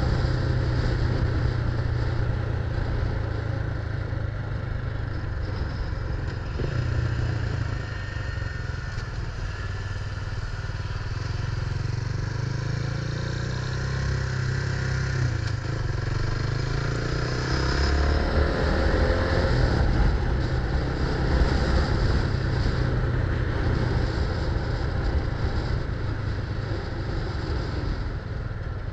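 Motorcycle engine running steadily while riding, getting a little louder about two-thirds of the way through.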